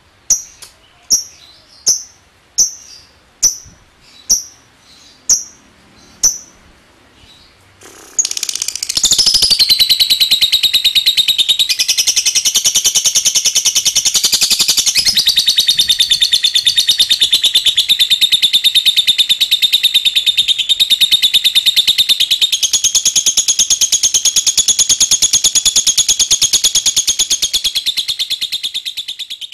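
Lovebird calling: a row of sharp, high single chirps, about one every three-quarters of a second, then about 8 s in a loud, long, very rapid chattering trill held for over 20 seconds without a break. This long trill is the 'ngekek panjang' song prized in contest lovebirds.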